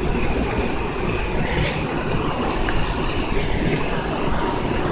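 Steady low rumble of a Kintetsu electric train at the station, with no sudden events.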